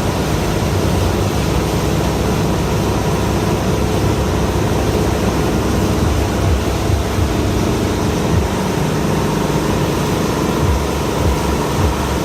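Tow boat's engine running steadily at pulling speed, mixed with a constant rush of wind and water.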